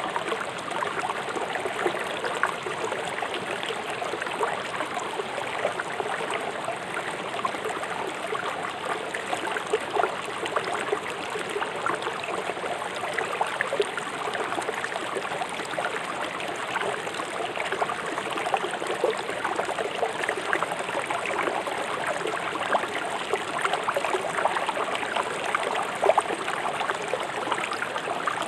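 Swift river water rushing over rocks: a steady rushing flow with many small splashes and gurgles.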